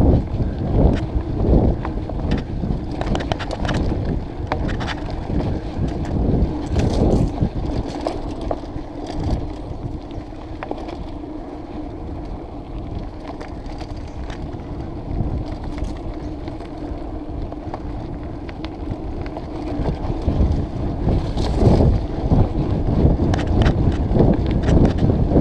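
Mountain bike riding a forest singletrack: tyres rumbling over the dirt, with the bike rattling and knocking over bumps and wind buffeting the microphone. It goes smoother and quieter through the middle, then rough and loud again near the end.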